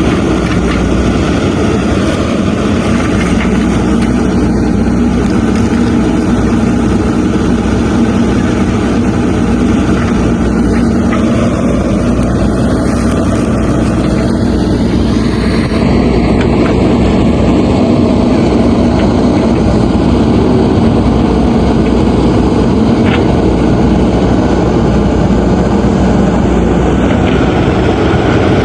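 Diesel engine of a JCB 3DX backhoe loader running steadily under load while it digs out tree roots. It gets slightly louder and changes in tone about halfway through.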